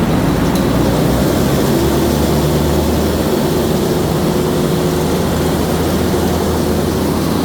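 Engine of a fire pump running steadily just after starting from the control panel in manual mode, driving the pump against its closed discharge valve. The engine is working normally.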